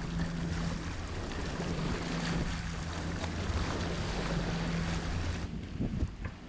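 Wind on the microphone and water washing past a boat under way, over a steady low hum. The sound changes abruptly about five and a half seconds in.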